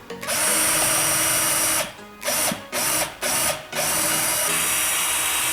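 Power drill running: one long run, then four short trigger bursts, then another steady run.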